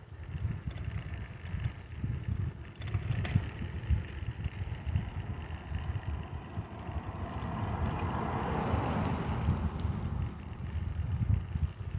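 Wind buffeting the microphone during a bicycle ride, an uneven low rumble throughout. About two-thirds of the way in, a rushing noise swells and fades.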